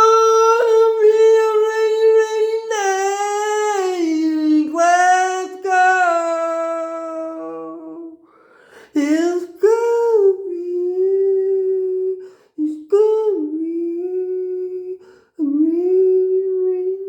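A child's voice singing long wordless held notes, sliding up and down in pitch, with a short break about halfway and shorter phrases after it.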